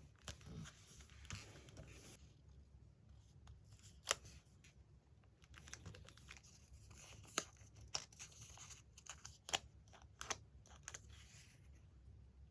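Magazine paper rustling and being cut, with several sharp clicks spread through.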